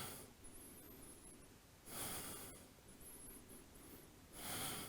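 A person breathing slowly and audibly, close to the microphone: a hissy breath about every two and a half seconds, three in all. Faint high warbling chirps come between the breaths.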